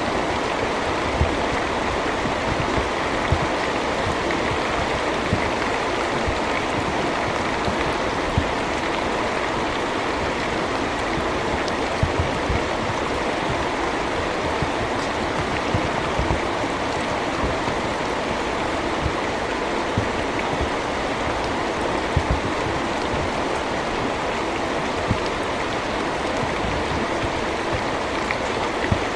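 Steady rainfall: an even hiss of falling rain with scattered louder drop impacts every second or two.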